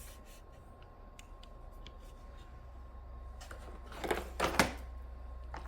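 Plastic parts of an upright vacuum being handled during assembly: a few faint clicks, then a couple of louder knocks and rattles about four seconds in.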